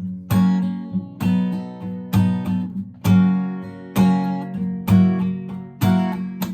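Acoustic guitar strummed, a chord struck about every second and left ringing between strokes.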